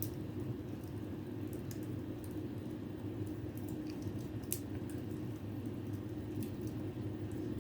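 Fire in a fireplace crackling: sparse, irregular sharp pops over a steady low rumble, with the loudest pop about halfway through.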